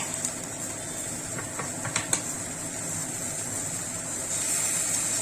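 Capsicum, onion and sauce frying in a hot kadai with a steady sizzle, and a few clinks of a spoon against the pan.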